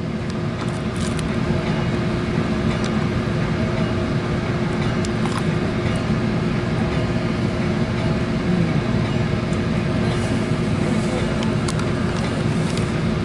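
Inside a passenger train car: a steady low rumble with a humming tone and a few faint clicks.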